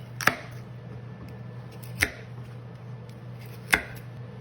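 Kitchen knife roughly chopping vegetables on a cutting board: three sharp chops, each about a second and a half apart.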